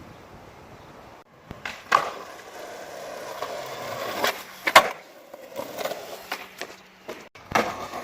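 Skateboard rolling, with several sharp wooden clacks of the board hitting the ground, the loudest a little under five seconds in.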